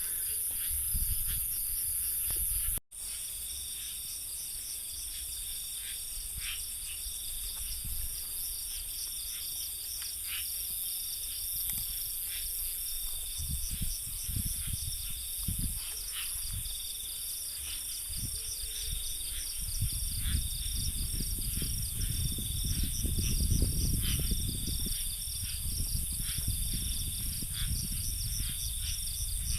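Night insect chorus, crickets among them: a steady high-pitched trill with a fast pulsing chirp below it. Under it runs low rumbling noise that gets louder about two-thirds of the way through.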